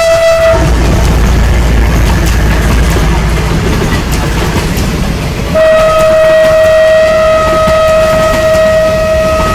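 Coaches of a diesel-hauled passenger train rolling past on the rails with a steady low rumble. A train horn sounds one steady tone briefly at the start, then again from about five and a half seconds in, held to the end.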